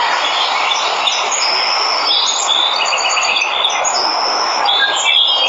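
Steady rush of a waterfall, with birds chirping and whistling over it in short high calls, including a quick run of repeated notes in the middle.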